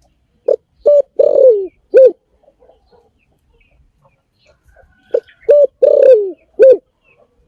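Spotted dove cooing: two identical phrases about five seconds apart. Each phrase is a short coo, a second coo, a longer drawn-out coo that falls in pitch, and a final coo.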